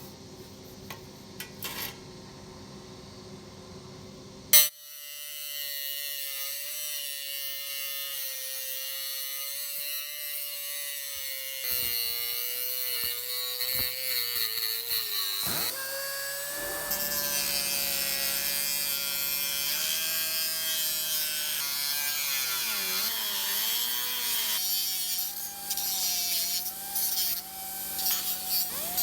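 Small high-speed power tool running on car-body sheet metal during restoration bodywork. A steady whine starts sharply about four and a half seconds in, and its pitch sags and recovers several times as the tool is loaded.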